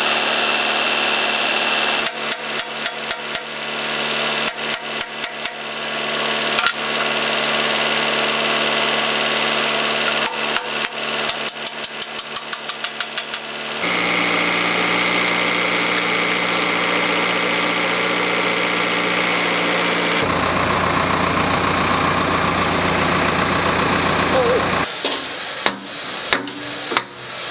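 An engine running steadily, with several runs of rapid sharp clicks; its tone changes abruptly a few times.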